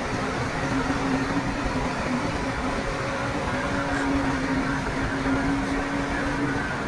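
Heavy earthmoving machinery's diesel engine running steadily, with a constant droning note over the engine noise.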